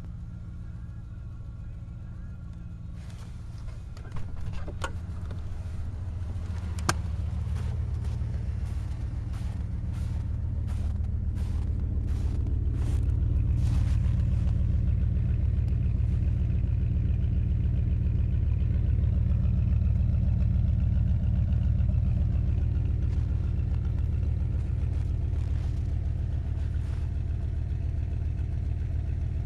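Old Dodge Ram pickup's engine idling just after a cold start at about −12 °F, following three months unused. The engine gets louder over about ten seconds, then holds steady. A run of sharp clicks and knocks comes in the first half.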